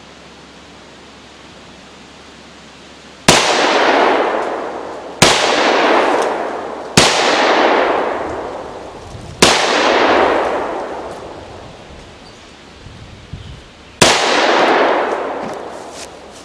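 Five pistol shots from a Romanian TTC Tokarev (TT33 pattern) firing 7.62×25mm Tokarev rounds, each shot followed by a long echo that fades over about two seconds. The first four come about two seconds apart, starting about three seconds in, and the fifth follows after a longer pause near the end.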